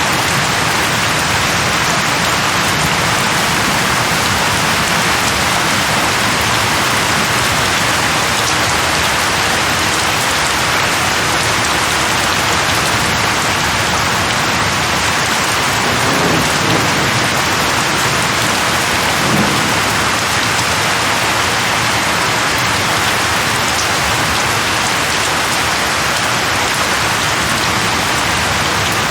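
Steady heavy rain, a dense even hiss of drops falling on a surface, with two brief low swells a little past halfway.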